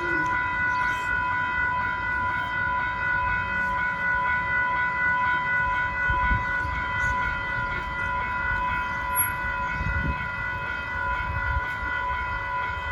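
A train rolling past at a level crossing: a low rumble of wheels on rail that swells a few times, under a steady high tone held throughout.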